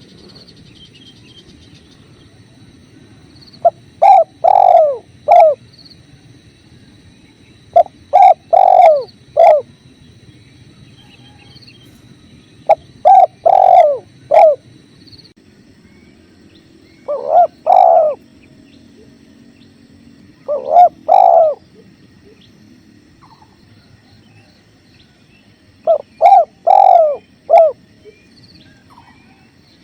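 Spotted dove cooing in six phrases of three or four notes each, a phrase every four to five seconds, over the steady rush of flowing river water.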